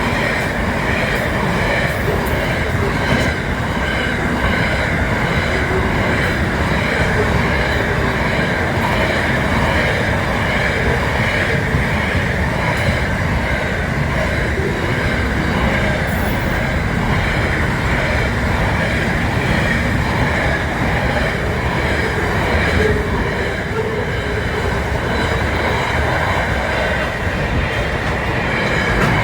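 Train running on the rails, a steady loud rumble with a constant high-pitched wheel squeal.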